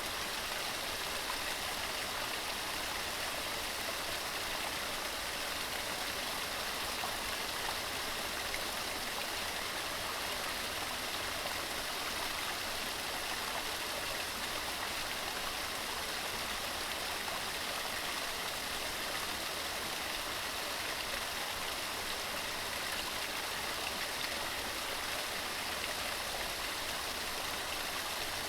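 Waterfall tumbling over rocks: a steady, even rush of falling water with no change throughout.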